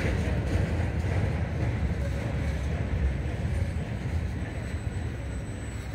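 Steady rumble of a rail work train's last gondola car rolling past on the track, slowly fading as the train moves away.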